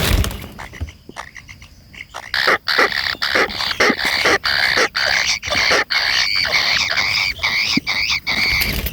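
Kingfisher calling: a fast, continuous run of short harsh notes that sets in about two seconds in. A sharp knock sounds right at the start.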